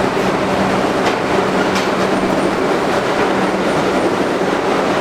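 R62 subway car running on the tracks with a steady, loud rumble and clatter of wheels on rail and a low hum. Two sharp clicks come about one and two seconds in.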